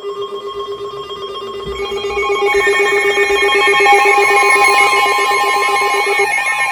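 Several NOAA weather alert radios sounding their alarms together for a tornado warning: steady and rapidly pulsing beeps at different pitches join one after another, and a warbling tone comes in over them during the last couple of seconds.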